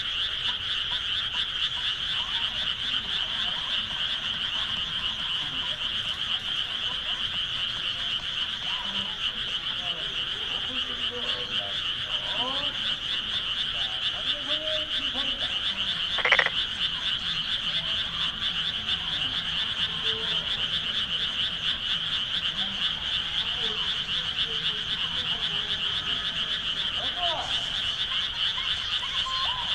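Dense, steady chorus of frogs calling from rice paddies, many high pulsing calls overlapping into one continuous trill. A single brief, sharp, louder sound cuts through once, about sixteen seconds in.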